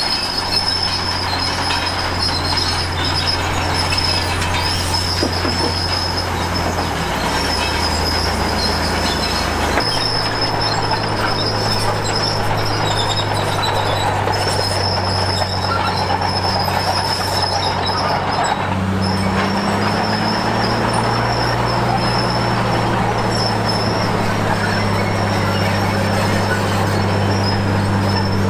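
Crawler bulldozer, a Komatsu D53P, running under load with a steady high squeal from its steel tracks over the diesel engine's hum. The engine note steps up about ten seconds in and again a little before twenty seconds.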